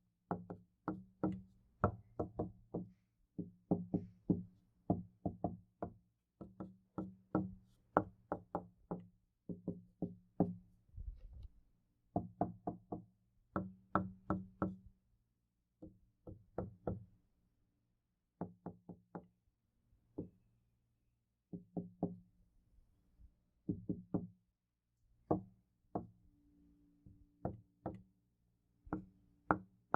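Knuckles knocking on a wooden door in repeated quick runs of several knocks with short pauses between them, the door ringing with a low resonance under each run.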